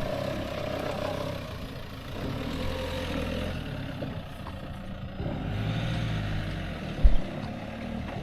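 Car engine running as a car pulls away, its low hum rising and falling in pitch. A brief low thump about seven seconds in.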